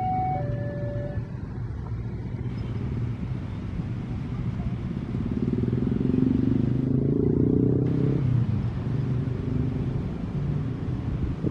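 A level crossing's two-tone electronic warning alarm ends about a second in. A low vehicle rumble follows; it grows louder around the middle and eases off after about eight seconds.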